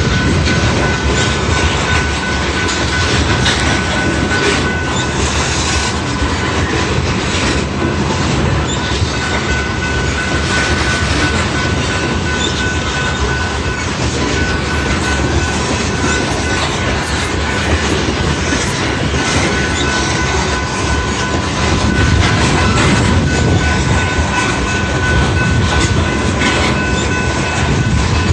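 Long train rolling past close by, its wheels clacking over the rail joints with a steady high wheel squeal running through.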